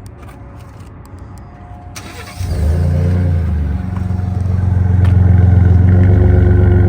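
Ford F-150's 3.5-litre EcoBoost twin-turbo V6 with an aftermarket exhaust starting up: a brief crank about two seconds in, then it catches and runs loudly. It settles and steadies into a deep idle.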